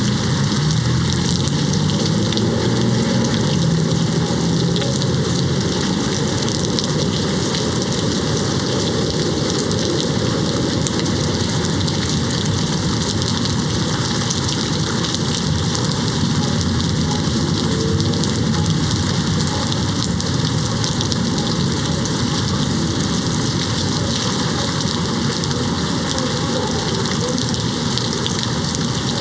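Steady heavy rain hitting a window pane, a dense even hiss. A low rumble sits under it during the first few seconds and then fades.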